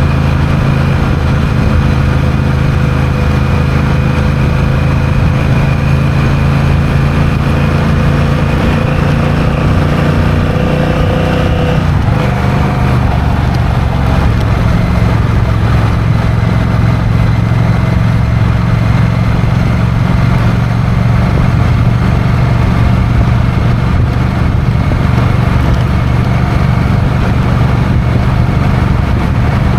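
Honda CMX1100 Rebel's parallel-twin engine running while riding, with wind noise on the microphone. The engine note climbs slightly, then drops suddenly about twelve seconds in and holds steady after that.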